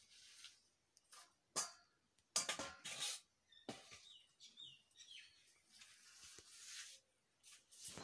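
Faint bird chirps, a few short high calls about halfway through, with a few short rustles of cloth or handled things close by.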